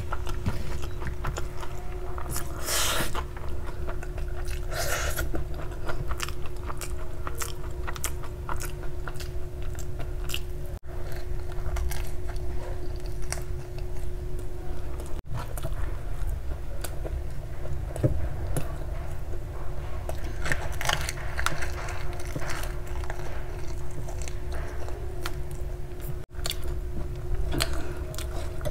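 Close-miked chewing of hand-fed mouthfuls of honey garlic chicken noodles: wet mouth sounds and biting with many small clicks throughout.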